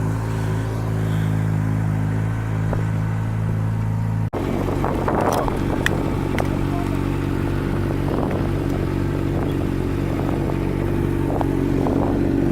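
Motorcycle engine idling steadily, cut off for an instant about four seconds in and then running on with a slightly different note and a few light clicks.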